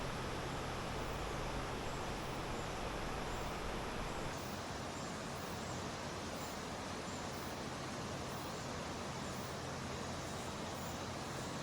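Steady rushing of river water in a rocky gorge, an even wash of noise with no breaks.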